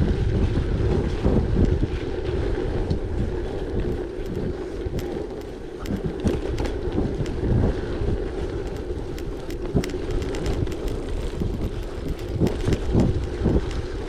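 Wind buffeting the microphone over a gravel bike in motion: steady tyre rumble with many scattered small clicks and knocks.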